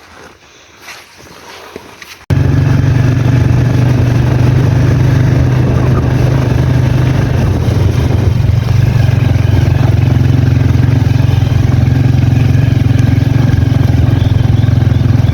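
Motorcycle engine running steadily at a constant pitch as the bike is ridden. It starts suddenly about two seconds in, after a quiet start.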